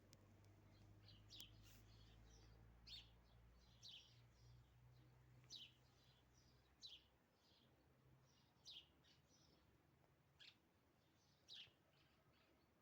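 Faint morning birdsong: a bird repeating short, high, downward-sweeping calls, roughly one every second or so, with a few softer chirps in between.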